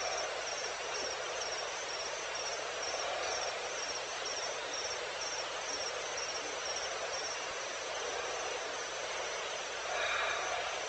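Evening outdoor ambience: a steady hiss of background noise with an insect chirping in a regular rhythm, about two chirps a second, fading out after about seven seconds. About ten seconds in comes a brief pitched animal call.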